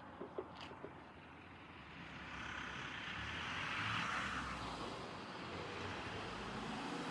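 A vehicle passing: its noise swells to a peak about four seconds in, then eases to a steady hum, with a few light clicks just before it.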